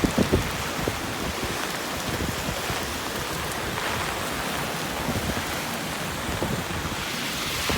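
Heavy typhoon rain falling steadily, an even rushing hiss, with wind buffeting the microphone in the first half second.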